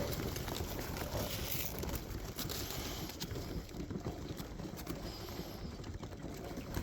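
Young racing pigeons moving about the loft: scattered light taps and wing flutters over a steady low rumble.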